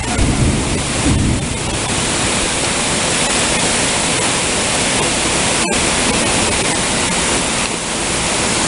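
Torrential thunderstorm rain pouring down in a loud, steady hiss.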